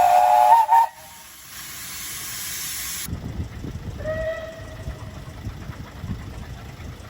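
Steam locomotive whistle sounding a chord of several tones, which stops about a second in and gives way to a hiss of steam. About four seconds in, another steam whistle gives a short toot over a low rumbling.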